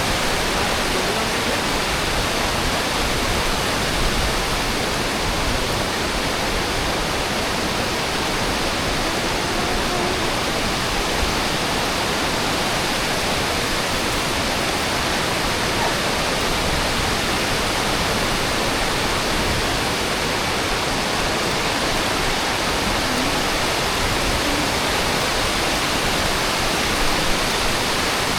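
Waterfall roaring steadily, a dense, unbroken rush of falling water close by.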